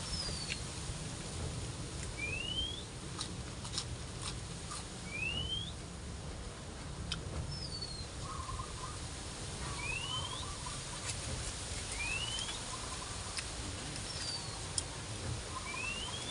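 A bird calling with a short rising whistle repeated every two to four seconds, with a few brief falling notes in between. Scattered sharp clicks and a steady low wind rumble on the microphone run underneath.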